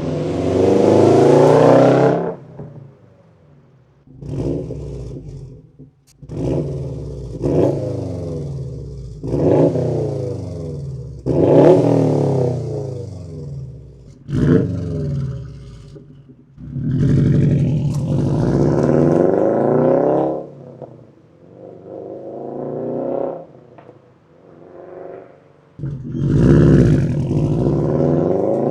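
2018 Subaru STI's turbocharged 2.5-litre flat-four engine revved through an aftermarket exhaust, about ten blips of rising then falling revs with short drops between them and a longer held rev in the middle.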